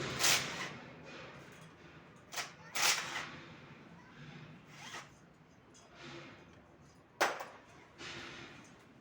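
A handful of short scraping or rasping noises from tool work on an engine being dismantled, the sharpest about seven seconds in.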